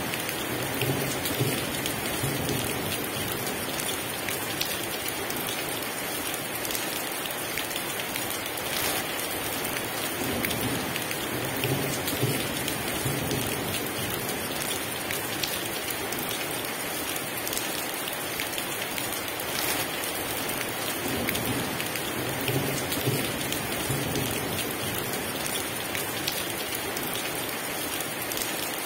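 Heavy rain falling steadily, with low rumbles of distant thunder swelling and fading about every ten seconds.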